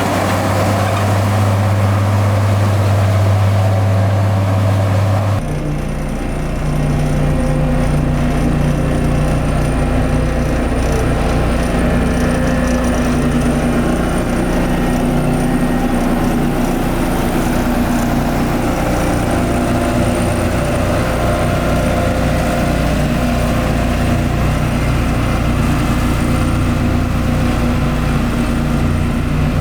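Heavy diesel construction machinery engine running steadily at a low, even pitch; about five seconds in the engine note changes abruptly to a different, slightly rougher one.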